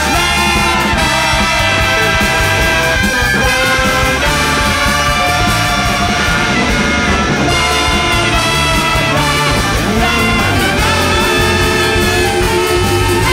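A large jazz big band playing loudly, with horns holding long melody notes over driving drums and bass.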